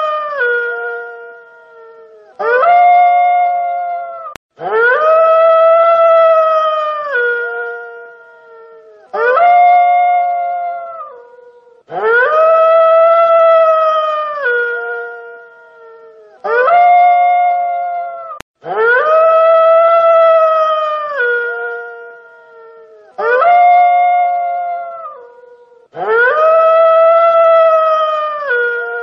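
Wolf howling: a series of long, steady-pitched howls, each dropping in a step to a lower note at its end, repeated over and over in alternating shorter and longer calls.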